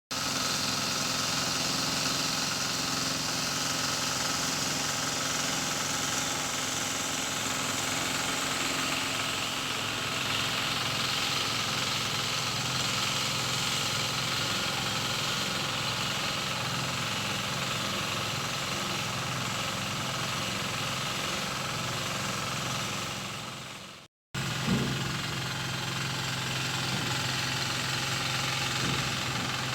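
An engine running steadily, broken by a brief silent cut about 24 seconds in, after which it carries on.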